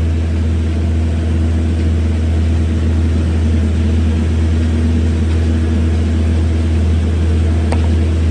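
A machine running steadily with a loud, even low hum and a few steady tones above it; two faint clicks come near the end.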